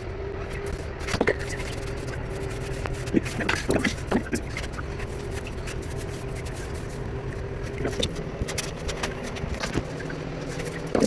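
A steady hum at one pitch, like a small motor running, with scattered scraping strokes and sharp clicks, as of work on tile. The hum breaks off about three seconds in and resumes a second or two later.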